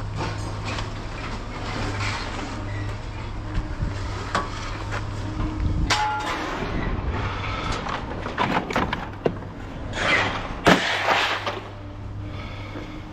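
Irregular clanking, knocking and scraping of scrap metal being handled, loudest in a cluster of sharp clanks a few seconds before the end, over a steady low engine hum.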